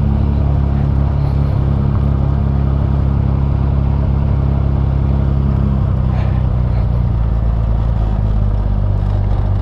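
Honda Gold Wing GL1500 flat-six engine running steadily at cruising speed, heard from the rider's seat with road and wind noise. The engine note shifts slightly about seven seconds in.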